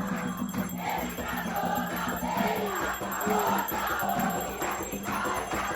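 A group of voices singing a devotional ponto to Xangô, with shakers or rattles keeping time over a steady low hum.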